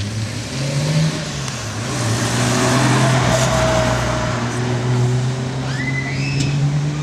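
1970 Jaguar E-Type Series 2's straight-six engine driving off and past, its note stepping up about a second in and then holding steady, loudest around the middle.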